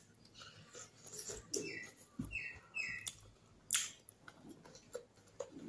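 A person chewing and eating by hand close to the microphone, with wet mouth smacks and clicks. About two seconds in come three short high chirps in quick succession, like a small bird's.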